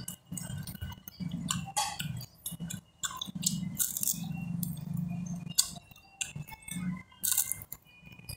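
Close-up biting and chewing of crispy fried catfish: many short, sharp crunches and crackles with mouth sounds.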